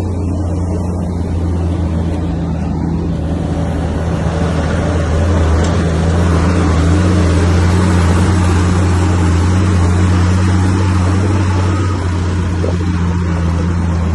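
Bulldozer's diesel engine running steadily with a deep hum, growing a little louder for several seconds in the middle as it works under load.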